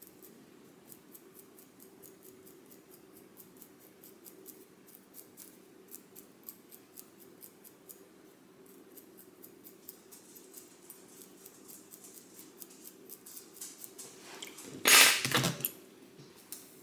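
Small scissors snipping in light, irregular clicks, with a louder rustling burst near the end.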